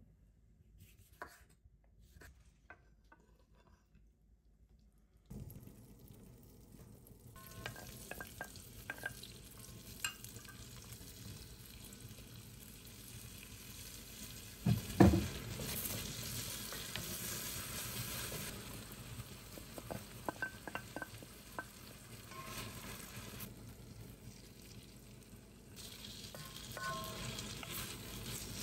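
Sliced onions and garlic sizzling in oil in a wok, with a utensil stirring and tapping against the pan and one loud clunk about halfway through. The first five seconds are nearly silent except for a few light taps.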